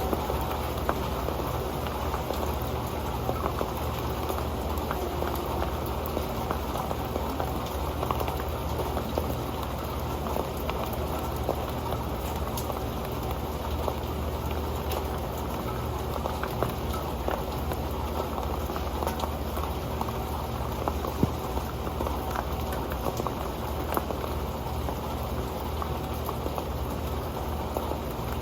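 Rain falling on an old pan: a steady, dense patter of many small drop ticks.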